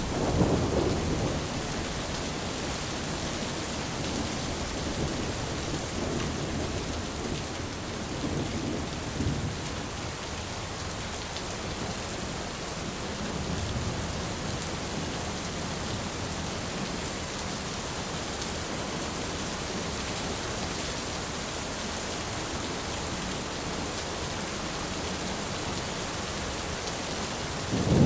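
Steady heavy rain falling, with rolls of thunder rumbling low: a loud rumble just after the start, softer rolls in the middle, and a sharp loud crack near the end.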